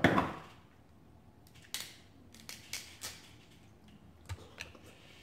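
Seafood shells being cracked and handled while eating: a loud crackling snap at the start, then a handful of shorter sharp cracks and clicks.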